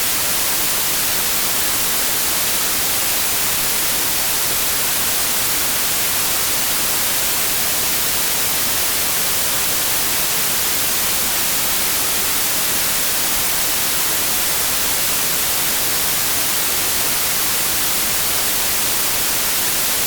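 Steady synthetic white noise: a constant, even hiss that is brightest in the highs and does not change.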